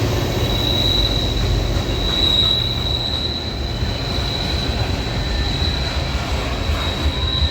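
Train passing close by on the track: a steady low rumble of the wheels and cars with a continuous high-pitched wheel squeal.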